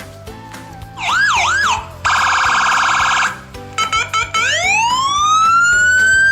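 Electronic siren sounds over background music. A short up-and-down wail comes about a second in, then a fast pulsing tone, then after a few stutters a long tone that rises and holds.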